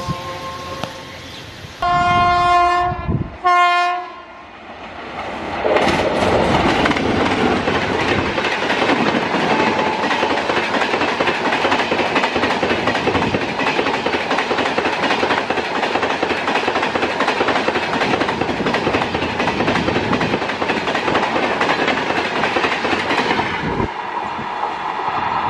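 A locomotive horn sounds twice, a long blast then a short one. Then an express train of LHB coaches hauled by a WAP-7 electric locomotive rushes past at high speed, its wheels clattering over the rail joints, and the sound drops a little near the end as the last coach goes by.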